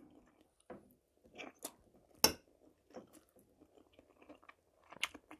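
Close-miked chewing of a mouthful of spaghetti and fried mushrooms: soft, wet mouth clicks and smacks at irregular intervals, the sharpest a little over two seconds in.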